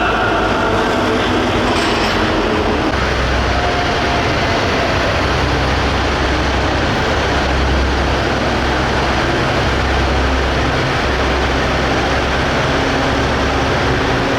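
Diesel engine of a super stock pulling tractor running hard at high revs during a pull, a loud, steady roar with a heavy low rumble.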